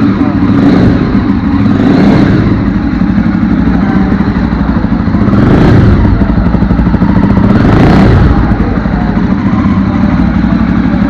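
Jawa Perak motorcycle's single-cylinder engine running just after being started, swelling in loudness three times as the throttle is opened slightly.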